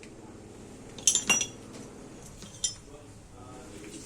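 Loose metal parts or tools clinking together during repair work on a sugarcane press: two sharp, ringing clinks a little after a second in, and one more at about two and a half seconds.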